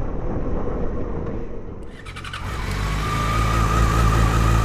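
Motorcycle riding noise with wind on the microphone, then about two seconds in an abrupt change to a louder, clearer engine sound: the Yamaha FZ6's inline-four running steadily through its new exhaust, a deep hum with a steady whine over it.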